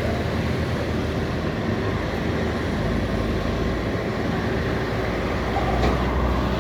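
Heavy highway traffic going past: a steady mix of truck engine and tyre noise, swelling a little near the end.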